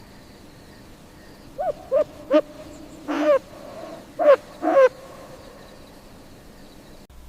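An owl hooting: a series of pitched hoots, three short ones in quick succession, then a longer one, then two more.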